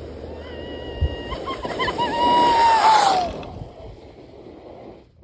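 A sled sliding down an icy hill: a hissing scrape that grows louder and stops suddenly about three seconds in, with a bump about a second in. Over it a long high-pitched note is held steady, then wavers and glides down as the slide ends.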